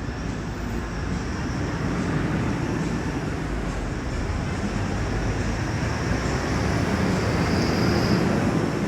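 Steady vehicle rumble with a faint high whine, growing a little louder toward the end.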